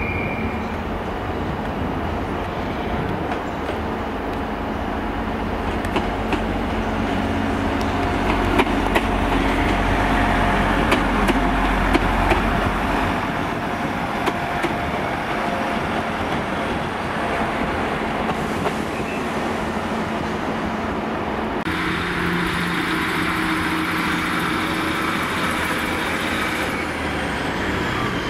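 Arriva Trains Wales class 175 diesel multiple unit passing close by, its underfloor diesel engines running and its wheels clicking over rail joints. About 22 seconds in the sound changes abruptly to a steadier diesel train sound at the platform.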